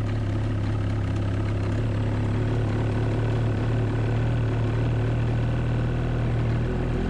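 2019 Ski-Doo MXZ Blizzard's 600R E-TEC two-stroke twin idling steadily just after an electric start.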